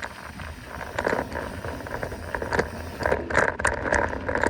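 Mountain bike riding fast downhill on a dirt trail: tyres crunching over the ground and the bike rattling in irregular bursts over the bumps, over a steady low rumble.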